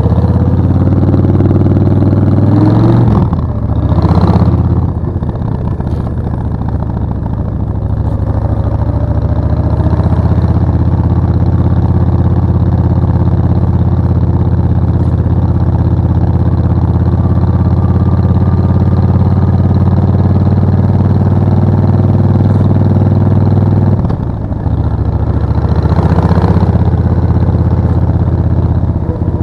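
Suzuki VS 1400 Intruder's V-twin engine running steadily while riding. The engine note dips and picks up again twice, about three seconds in and again near the end.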